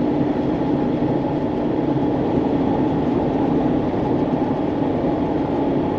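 Steady road and engine noise inside a vehicle's cab while cruising on the highway: a constant low rumble with a faint steady hum.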